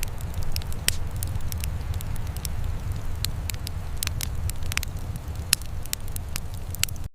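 Wood fire crackling in a fireplace: irregular sharp pops and snaps over a steady low rumble, with a momentary cut-out in the sound just before the end.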